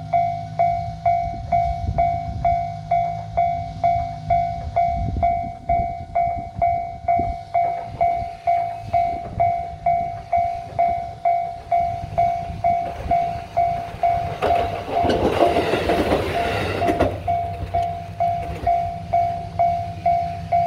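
KiHa 220 single-car diesel railcar passing, its engine and wheels on the rails loudest about fifteen seconds in, while a level-crossing bell dings steadily about twice a second throughout.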